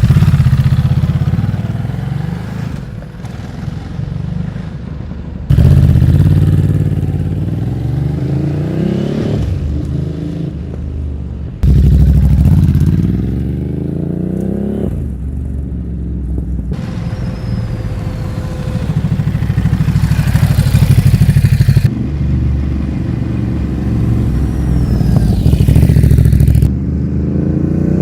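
Ducati Monster 950's 937 cc L-twin engine through a Termignoni exhaust, in a string of short clips cut together abruptly. The revs climb as the bike accelerates, then ease off over a deep, steady rumble.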